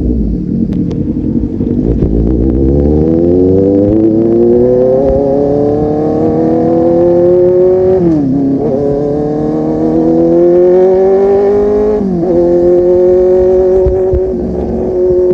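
Kawasaki Z800 inline-four motorcycle engine through a full-system aftermarket exhaust, accelerating hard. Its pitch climbs steadily, drops with an upshift about eight seconds in and another about twelve seconds in, then holds steady at cruising speed.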